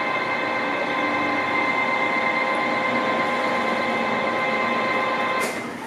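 Carlton 3A radial arm drill's power elevating drive raising the head, a steady multi-tone mechanical whine. It drops off abruptly with a click near the end as the drive is stopped.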